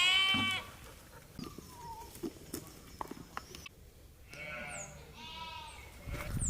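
A goat bleating: one short, wavering bleat at the start and two more close together about four and a half seconds in. A few short, high chirps come near the end.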